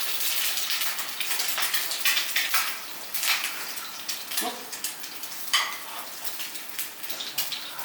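Food sizzling in a frying pan, with a utensil stirring and clinking against the pan in irregular knocks.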